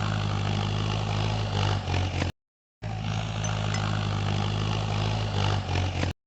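Vehicle engine running steadily at idle. It cuts off abruptly about two seconds in, and after half a second of silence the same engine sound starts again and runs for about three more seconds before stopping suddenly.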